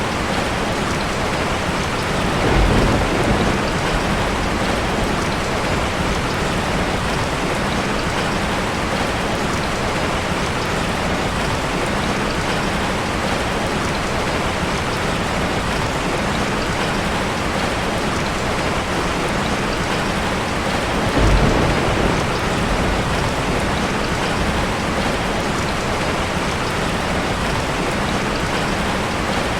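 Steady heavy rain, with two short low rumbles of thunder: one about three seconds in, the other about two-thirds of the way through.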